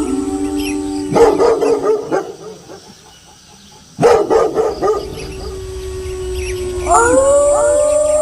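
Several wolves howling together in long held and gliding notes, broken by two short bursts of dog barking about a second in and again about four seconds in. A fresh round of rising howls starts near the end.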